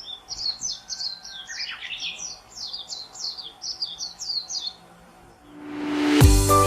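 A songbird singing a rapid run of short, high chirping notes for about five seconds. Music then swells in, and a beat starts near the end.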